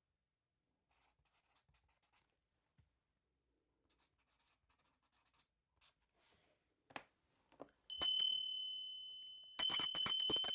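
Faint scratching of a pen on paper, then about eight seconds in a ritual bell struck once, ringing and fading, and near the end a cluster of shaman's ritual bells shaken rapidly, jingling.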